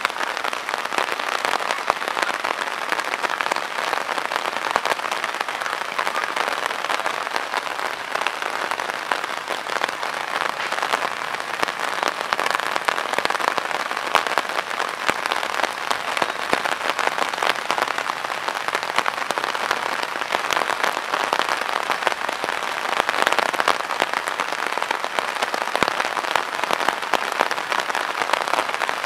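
Steady rain pattering: a dense, even crackle of drops that holds without a break.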